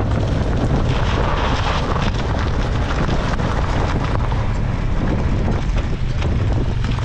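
Open-top MG Midget sports car driving at a steady speed: an even engine drone under rushing wind buffeting the microphone and road noise.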